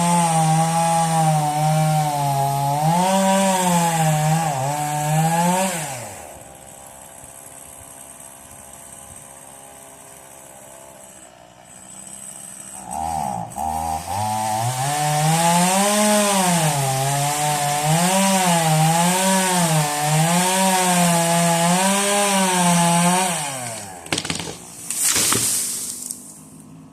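Stihl two-stroke chainsaw cutting wood at high revs, its pitch wavering under load. It drops to idle about six seconds in and revs back up about seven seconds later for a second cut. Near the end it drops to idle again, with one short blip of the throttle.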